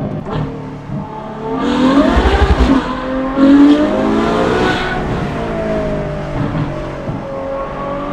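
Ferrari F12 Berlinetta's 6.3-litre V12 through a free-flow F1-style X-pipe and valved titanium rear exhaust, heard from inside the cabin. It revs up hard twice with a rising, high-pitched note, loudest in the first half, then eases off with the pitch falling slowly.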